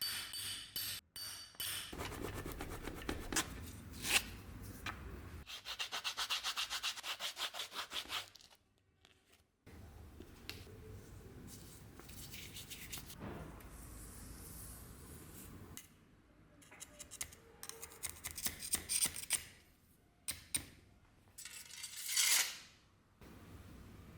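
Hand sanding with sandpaper: spells of scraping rubbing, with a run of quick, even back-and-forth strokes a few seconds in, a short pause, then more irregular scrapes.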